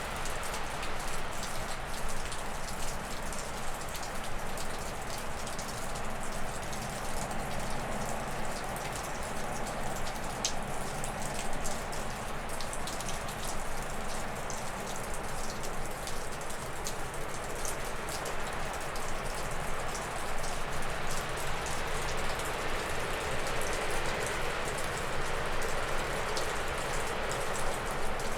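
Wind gusting through spruce and birch trees, a steady rushing that swells about a third of the way in and again toward the end. Meltwater dripping off a roof in many small ticks.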